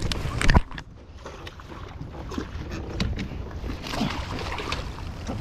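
Handling noises aboard a fishing kayak: one loud knock about half a second in, then scattered small knocks and clicks over a steady low rumble.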